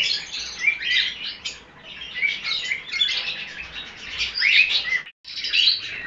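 Many caged pet birds chirping together, with short, high, overlapping chirps and calls. The sound cuts out briefly about five seconds in.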